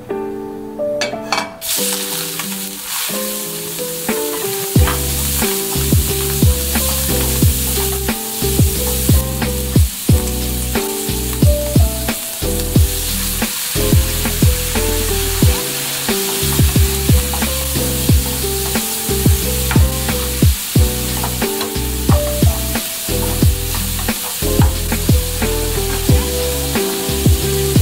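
Shrimp sizzling hard in hot oil in a frying pan as they are stir-fried. The sizzle starts suddenly about two seconds in and then runs steadily.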